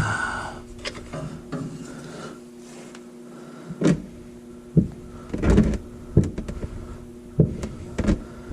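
A screwdriver being hammered into a stuck spin-on oil filter to get it to turn loose: a few irregular sharp knocks in the second half.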